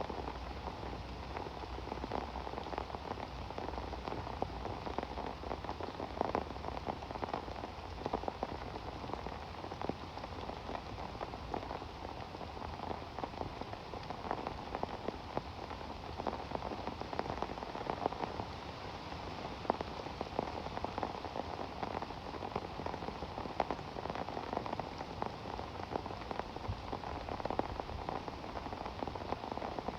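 Steady rain falling, with a dense patter of many small drop impacts.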